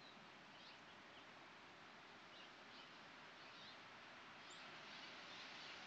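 Faint, scattered bird chirps over a steady outdoor background hiss.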